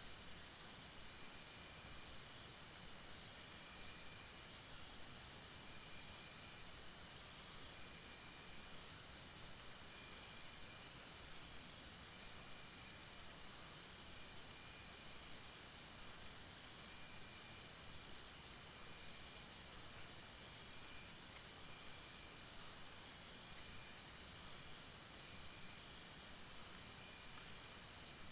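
A night-time chorus of insects, crickets among them, trilling steadily in several high overlapping pulsing trills. Short, very high chirps cut in every few seconds over a faint background hiss.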